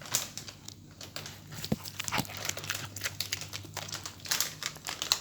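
Irregular crinkling and crunching noises as a dog is fed a treat.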